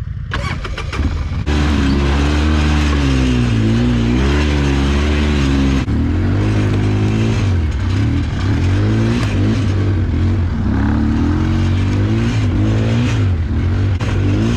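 ATV engine running under throttle, its pitch rising and falling as the rider works the throttle. It picks up loudly about a second and a half in and eases off briefly near the middle.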